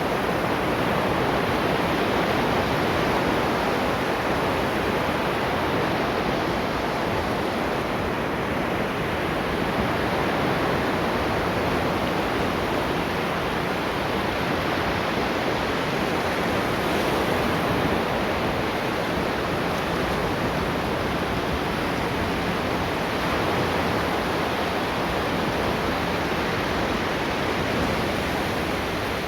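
Ocean waves washing onto the shore in a steady, dense wash with gentle swells in loudness.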